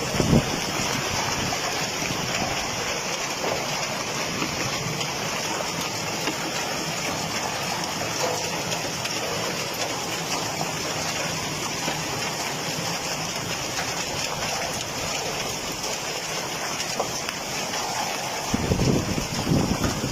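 Hailstorm with heavy rain, a dense steady hiss of pelting stones and water, growing heavier with deeper rumbling in the last couple of seconds.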